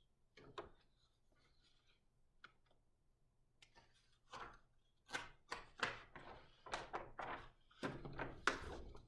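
Handling of a large paper big book: a run of rustles and soft thunks as its pages are turned and the book is shifted, starting about four seconds in and loudest near the end.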